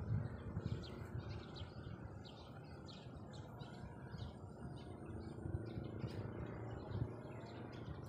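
Small birds chirping, with many short high notes repeated at an uneven pace, over a steady low rumble.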